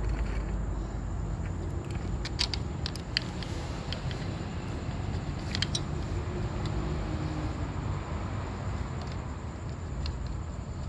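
A few sharp light clicks and taps of hand work on a motorcycle, a cluster about two to three seconds in and another near the middle, over a steady low background rumble.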